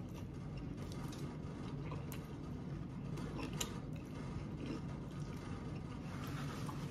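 Faint close-miked chewing of a mouthful of food, with scattered small mouth clicks over a steady low hum.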